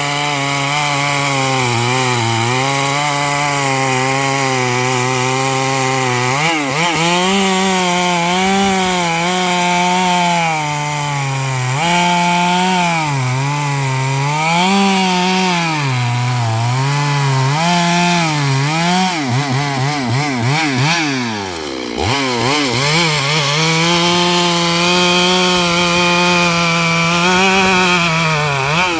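Stihl MS 382 two-stroke chainsaw running near full throttle while ripping a eucalyptus log lengthwise, its pitch sagging and recovering again and again as the chain bites. About twenty seconds in, the revs fall away sharply, then climb back up and hold high.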